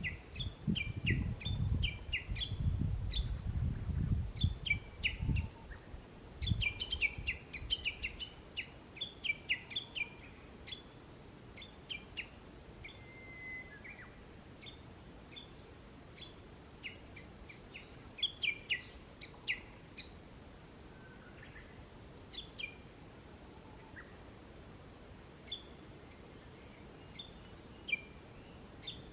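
Small songbirds calling in a forest: many quick, high chirps, busiest for the first twenty seconds and then thinning out to scattered calls. Uneven low rumbling for the first six or seven seconds.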